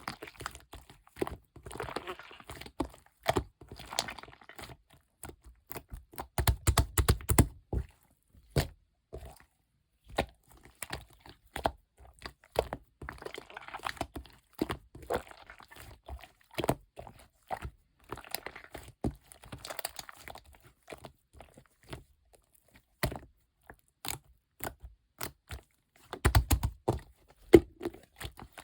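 Clear slime mixed with small round beads being squished and pressed by hand, giving dense crunchy clicks and crackling pops. There are two heavier dull thumps, about seven seconds in and near the end.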